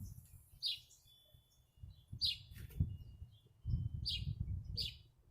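A small bird chirping, short high chirps about once a second, over a low rumbling noise.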